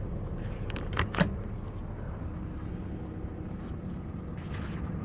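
Scania R560's V8 diesel truck engine running steadily, with a few sharp clicks about a second in.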